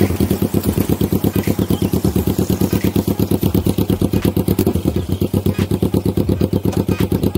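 Kawasaki Z250 motorcycle engine running at a steady low speed, a fast, even pulsing note with no change in revs.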